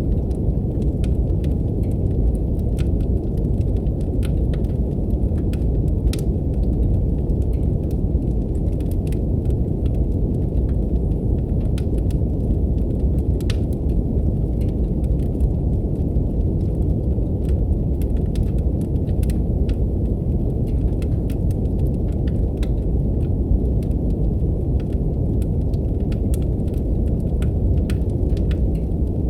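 Steady brown noise, a deep even rumbling hiss, mixed with fireplace crackling: irregular sharp pops and snaps from burning wood scattered throughout.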